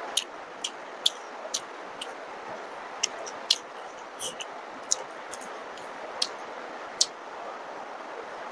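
Close-up eating sounds of a man chewing luchi and potato-paneer curry: wet lip smacks and mouth clicks, irregular at about one or two a second, over a steady hiss.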